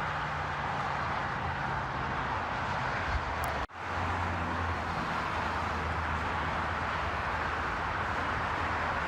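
Steady vehicle and road noise, with an even rushing hiss and a low hum. It cuts out for an instant about a third of the way through, then carries on.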